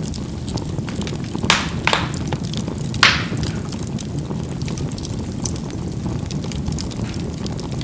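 Charcoal burning in a fireplace: a steady low rush of flame, with a few sharp pops as the coals burst, clustered between about one and a half and three seconds in, and faint crackling.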